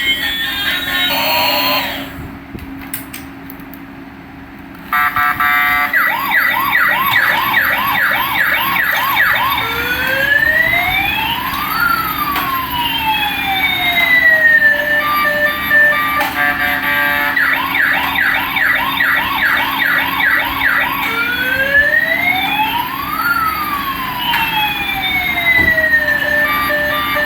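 Toy police car's electronic siren sound effect, starting after a brief quieter stretch. It alternates a fast yelp of quick repeated rising sweeps with a slower wail that rises and falls, twice over.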